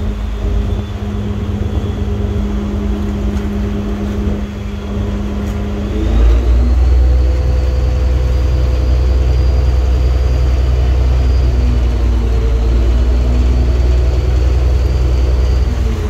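Boat engine running steadily, then throttling up about six seconds in: its pitch rises, it gets louder and it holds there, dropping back near the end.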